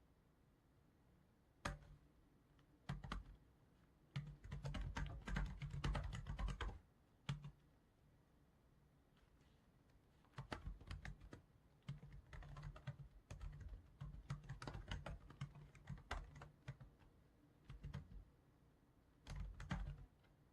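Typing on a computer keyboard in bursts: a few single keystrokes, a quick flurry, a pause of about three seconds, then a longer run of steady keystrokes and a short burst near the end.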